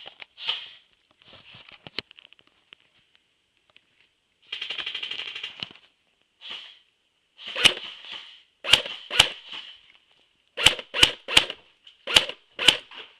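Airsoft guns firing: a short rapid full-auto burst about five seconds in, then a string of about eight sharp single shots over the second half.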